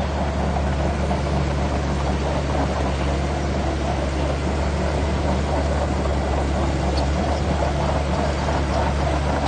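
Heavy diesel engine of earthmoving machinery running steadily, with a constant low hum and no marked revving.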